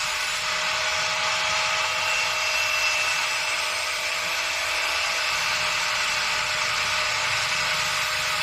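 Angle grinder running steadily with a high whine and a dense grinding hiss as it sharpens a knife blade.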